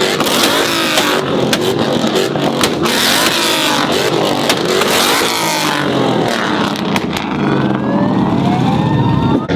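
Several car engines revving hard at once, their pitch repeatedly rising and falling, with sharp pops and crackles during the first six seconds. Near the end one engine's pitch climbs steadily.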